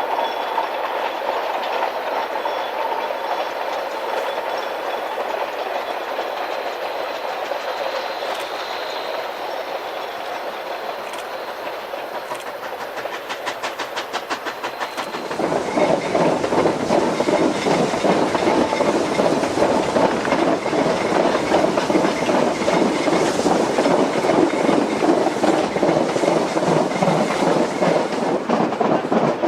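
Narrow-gauge train rolling on the rails, with a steady run of noise and a quick series of clicks from the wheels over the track. About halfway through, the sound jumps suddenly louder and fuller and stays that way.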